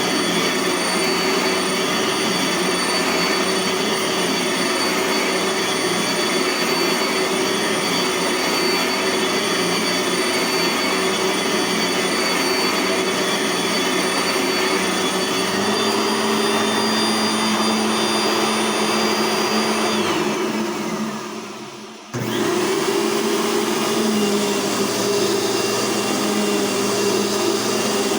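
Dirt Devil vacuum cleaner motors running with a steady high whine. The tone shifts about sixteen seconds in. Around twenty seconds the motor winds down with a falling pitch, and then a motor starts up again abruptly and runs on steadily.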